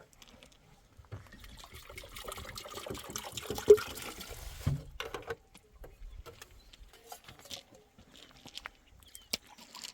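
Liquid pouring for about three and a half seconds, with a sharp knock partway through, ending with a thud. Scattered small clicks and rustles follow.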